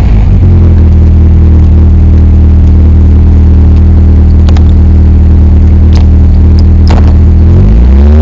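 Caterham Seven's engine idling steadily as the car rolls to a stop, heard from the open cockpit. Near the end the throttle is blipped and the revs rise.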